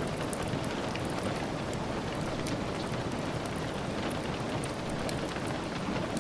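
Steady rain falling, with many small, sharp crackles from a wood fire scattered over it.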